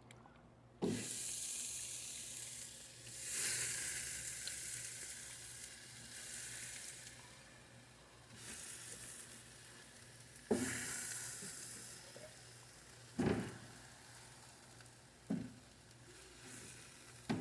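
Marinated chicken pieces sizzling on a hot grill. The sizzle flares up several times, each time with a soft knock, as more pieces go down.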